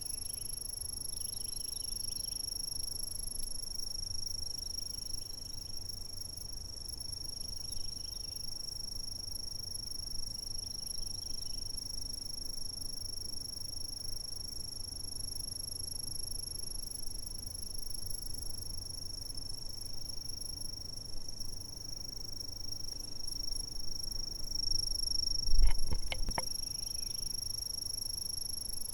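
Insects calling in an unbroken, steady, high-pitched trill over a faint low rumble. A quick cluster of sharp clicks with a low thump comes near the end.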